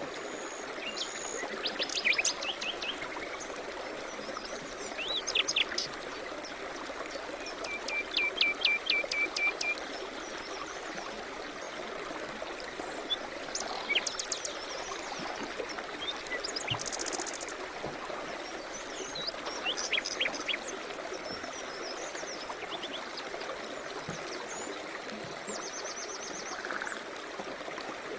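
A stream running steadily, with songbirds calling over it in short phrases every few seconds; one bird gives a quick run of repeated notes for about two seconds near the one-third mark.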